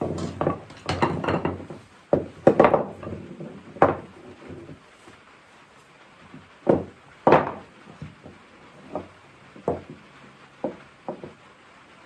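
Oak chair parts being knocked together during assembly: a series of wooden knocks, several loud ones followed by lighter taps.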